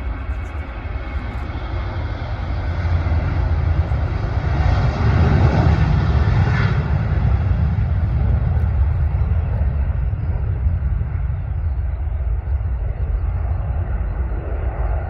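Boeing 737 airliner's jet engines at departure power: a steady, low rumbling roar that swells to its loudest about five to seven seconds in, then slowly fades as the jet moves away.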